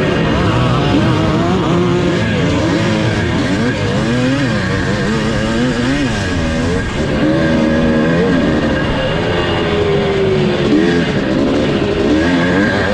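1982 Husqvarna 430's two-stroke single-cylinder engine revving up and down over and over under racing load, its pitch rising and falling every second or so.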